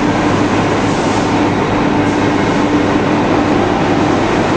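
Rebar rolling mill machinery running: a loud, steady industrial din with a constant hum.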